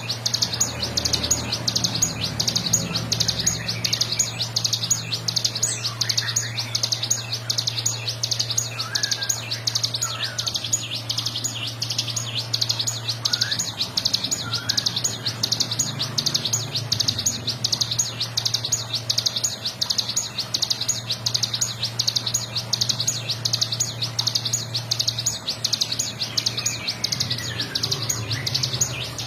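Ciblek gunung singing its 'ngebren' song: a very fast, unbroken run of high notes that goes on without a pause and stops right at the end. A steady low hum lies underneath, and another bird's short whistles sound faintly now and then.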